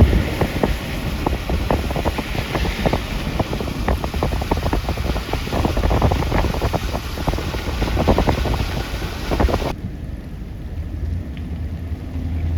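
Wind buffeting the microphone over a low vehicle rumble, with many irregular clicks and pops. About ten seconds in, the hiss and clicks drop away suddenly, leaving a quieter rumble.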